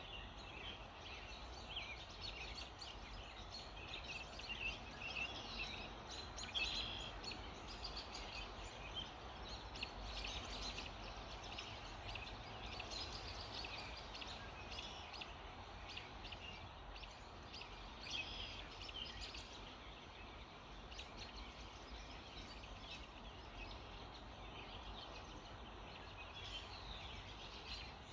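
Dawn chorus: many small songbirds chirping and trilling over one another without pause, over a faint steady background hiss.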